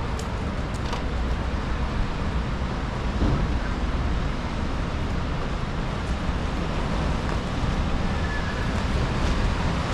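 Steady city street traffic on rain-wet roads: an even hiss over a deep rumble, with a few faint clicks near the start.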